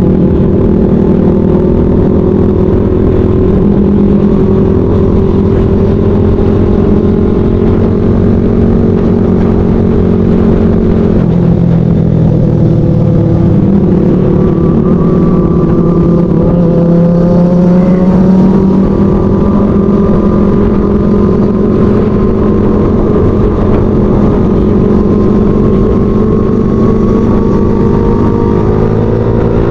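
Motorcycle engine running while riding at speed, heard from the rider's camera with wind and road noise. The engine pitch steps and glides a few times as the throttle and gears change.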